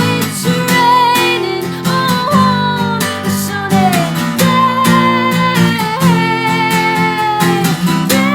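A woman singing long, wavering held notes over a strummed acoustic guitar.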